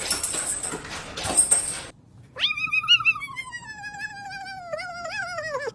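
A pet animal's single long, wavering call of about three seconds, sliding slowly down in pitch. It starts about two seconds in, after a stretch of noise with a thin high whine.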